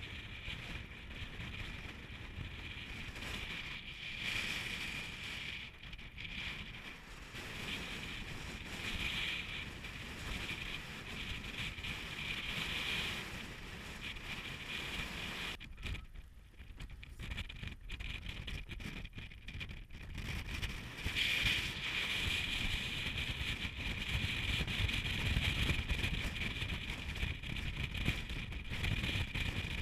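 Hurricane-force mountain wind gusting and buffeting the microphone: a low rumble under a steady high hiss. It eases off past the middle, then comes back stronger.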